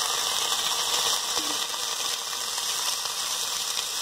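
Chopped onions and tomatoes frying in oil in a steel pan with a steady sizzle, while a metal slotted spoon stirs and scrapes them around the pan.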